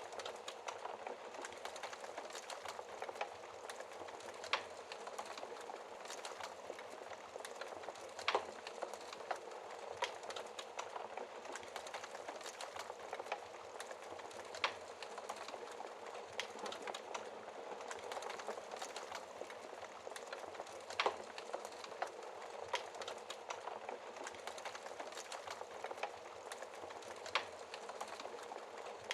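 Logs burning in a fireplace: a steady crackling hiss, with sharp pops of the wood every few seconds.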